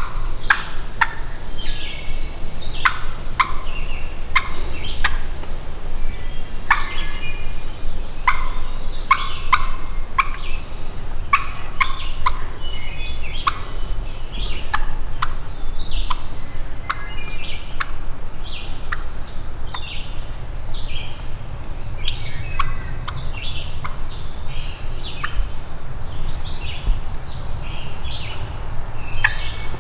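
Turkeys calling: an unbroken run of short, sharp notes, several a second, with no pause.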